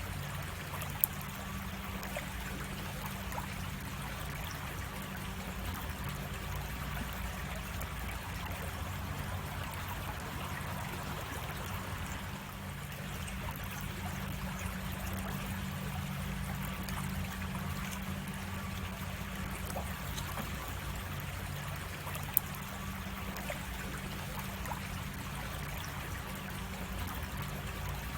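A creek running over small cascades: a steady trickling and rushing of water, with two brief sharp clicks, about a second in and about 22 seconds in.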